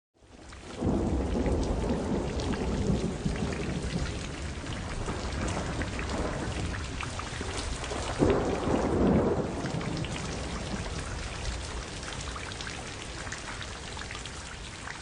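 Steady rain with rolling thunder: a low rumble builds about a second in and another swells around eight seconds in, and the rain then slowly fades.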